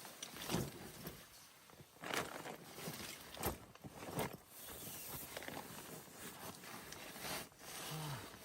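A run of irregular knocks, crunches and scrapes of hands-on work, with a short low falling creak near the end.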